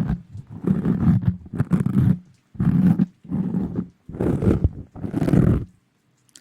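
Close-miked rustling and rubbing right at the microphone, an ASMR trigger, in about six heavy, low strokes of under a second each.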